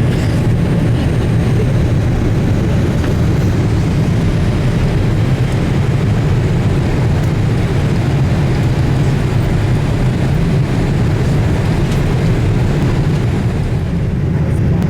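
Steady cabin noise inside a Boeing 787-8 Dreamliner in flight: a constant low rumble with airflow rushing over it from the two GE GEnx-1B engines and the air past the fuselage.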